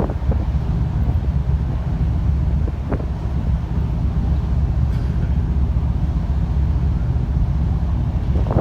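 Wind buffeting the microphone over the steady low rumble of a car ferry's engines, with a brief gust near the end.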